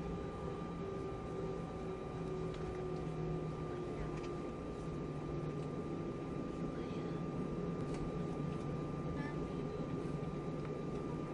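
Steady hum and rush of noise inside an Airbus A320 cabin, with a constant thin high tone over it.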